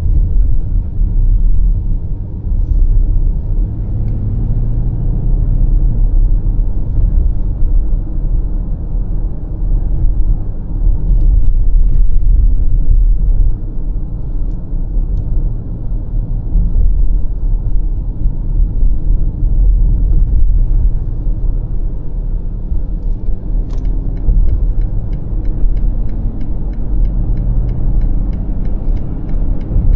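BMW X5 M50i driving at highway speed: a steady low rumble of engine and road noise. Near the end, a run of quick, regular faint ticks.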